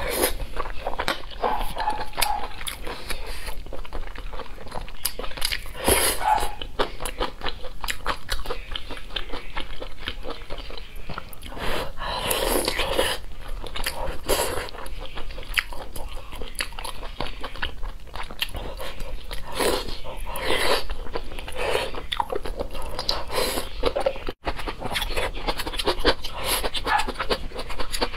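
Close-miked chewing and wet mouth smacking as a person eats soft braised pork belly and glass noodles, with louder bursts every few seconds.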